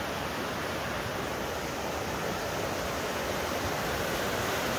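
Steady rushing of a river.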